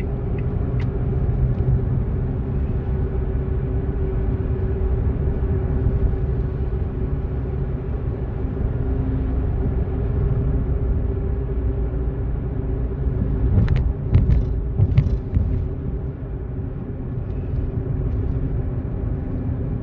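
A car driving on the road, its engine and tyres making a steady low rumble, with a few sharp knocks about two-thirds of the way through.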